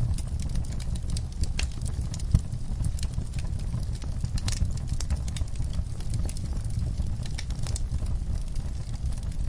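Wood fire in a fireplace crackling: irregular sharp pops and snaps over a steady low rumble of flame, with one louder pop a little over two seconds in.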